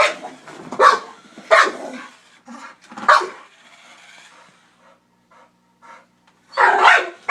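Blue nose pit bull barking in agitated bursts: four loud barks in the first three seconds, a lull, then a rapid run of barks near the end.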